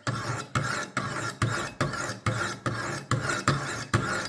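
200-grit sharpening stones on a Wicked Edge WE60 rasping along a steel knife edge in quick, even strokes, about two and a half a second. The blade is very dull, and the coarse grinding is meant to raise a burr.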